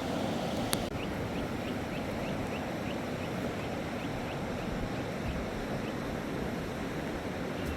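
Steady rushing of a flooded river, with a sharp click under a second in, followed by a bird's quick series of short high chirps, about three a second, for a few seconds.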